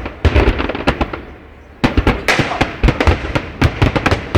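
Fireworks going off: a rapid string of sharp bangs and crackles that thins out about a second in, then starts again densely just before two seconds.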